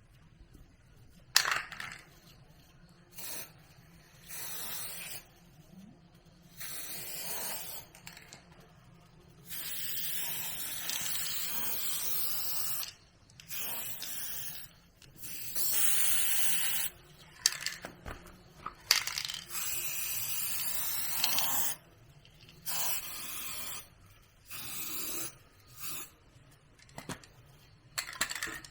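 Repeated bursts of spraying hiss, each lasting one to three seconds, with sharp clicks and knocks in the gaps between them.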